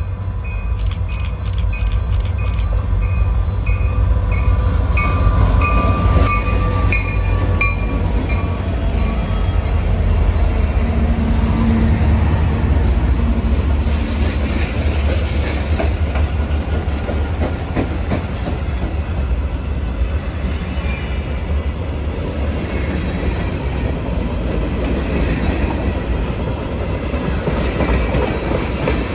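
CSX freight train rolling past, a steady heavy rumble of locomotives and cars with wheels clacking over the rails. A ringing stroke repeats quickly through roughly the first nine seconds, then only the train is heard.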